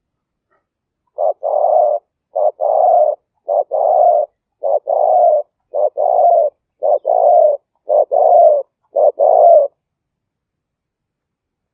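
Spotted dove cooing: eight phrases about a second apart, each a short note followed by a longer one, ending shortly before the close.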